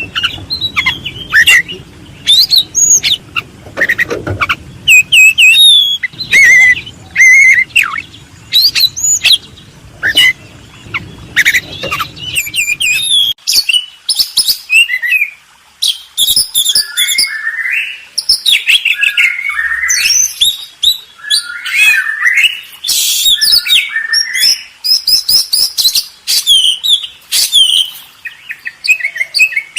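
Songbirds chirping and calling in a dense, loud chorus of short, high chirps and whistles, many of them overlapping.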